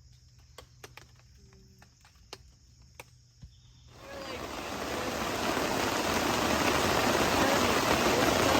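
Crickets chirping faintly, with a few small clicks. About four seconds in, this gives way abruptly to loud, steady heavy rain.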